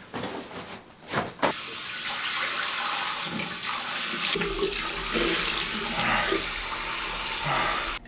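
Bathroom washbasin tap running in a steady stream, with water splashing as cupped hands scoop it up to wash a face. The running water starts about a second and a half in and cuts off suddenly near the end.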